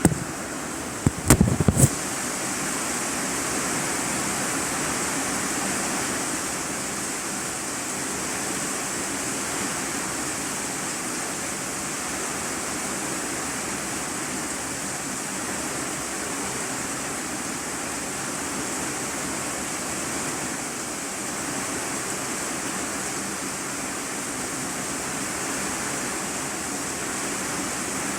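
Steady rain drumming on a corrugated iron-sheet roof, heard from the room below as an even hiss. A few sharp clicks or knocks come close together between one and two seconds in.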